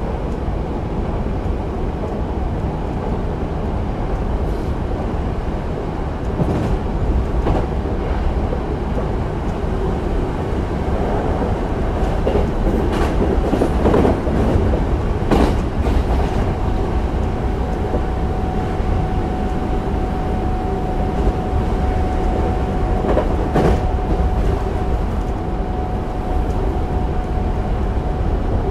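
Hankyu 8000 series electric train with Toshiba GTO-VVVF control running at speed, heard from inside the car: a steady rumble of wheels on rail with a few short knocks from the track. A steady tone comes in about halfway through and holds.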